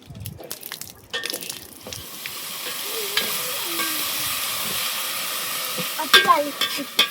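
Food frying in a hot pan: a sizzle swells after about a second and holds steady. A metal utensil knocks against the pan about a second in and again several times near the end.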